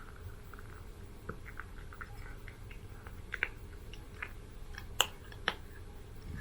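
A Kinkalow cat chewing and eating its food: irregular small crunches and clicks, with a few sharper clicks in the second half.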